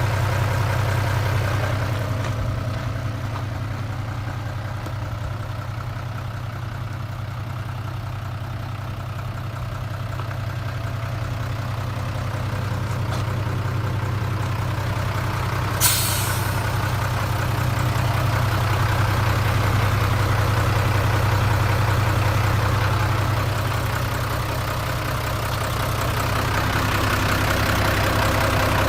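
Mitsubishi 6D16 inline-six diesel engine of a dump truck idling steadily. A short, sharp hiss of air comes about halfway through.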